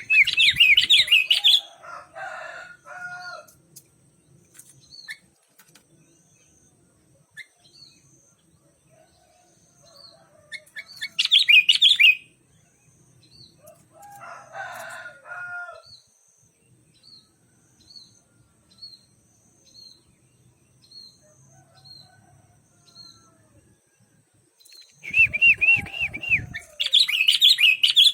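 Sooty-headed bulbuls singing: three loud bursts of warbling song, one at the start, one about 11 seconds in and one near the end, with softer, lower calls between them. A steady string of short, high chirps at an even pace runs through the middle.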